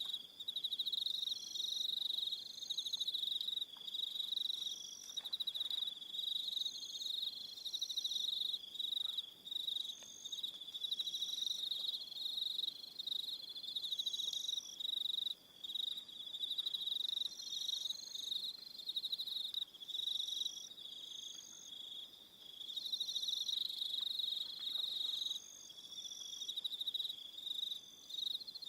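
Evening chorus of crickets: a steady, high-pitched trill runs throughout. Over it, shorter and higher chirps repeat every second or two.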